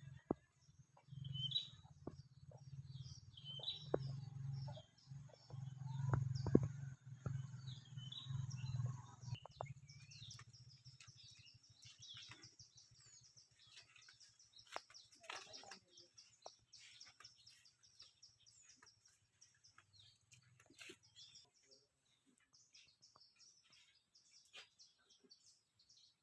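Small birds chirping and twittering, many short high calls overlapping throughout. A low steady hum runs underneath and stops near the end, with a few faint clicks.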